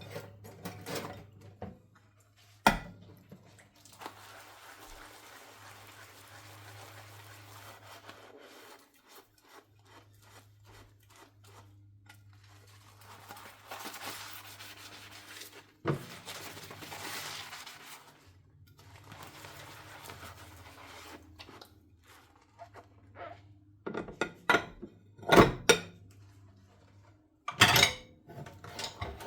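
Dishes being hand-washed at a sink. There are sharp knocks and clinks of dishes and cutlery, one about three seconds in, one in the middle and a cluster near the end. Between them come quieter stretches of soft scrubbing, over a low steady hum.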